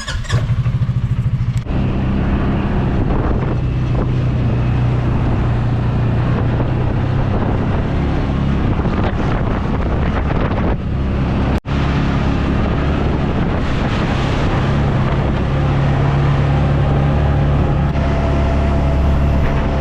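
Farm buggy's engine running as it drives across the paddock, choppy for the first second or so and then steady, with wind on the microphone. The sound drops out for an instant about two-thirds of the way through.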